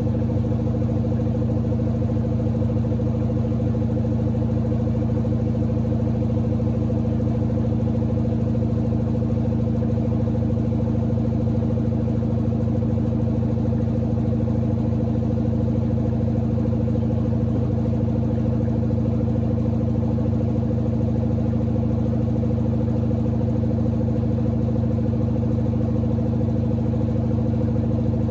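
Samsung WD70T4047CE front-loading washer-dryer running, a steady hum of several tones at an even level throughout.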